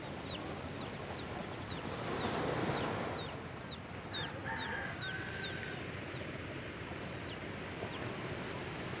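Birds chirping, with many short, high calls that each fall in pitch, two or three a second. Under them runs a steady rush of background noise that swells briefly about two seconds in. A longer, steady call is held for about a second and a half near the middle.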